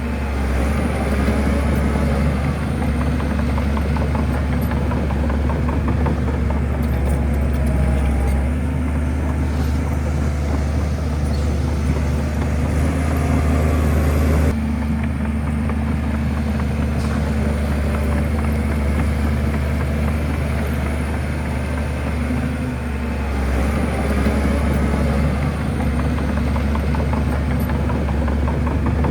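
Diesel engine of a Shantui crawler bulldozer running steadily with a deep hum while working; the sound changes abruptly about halfway through.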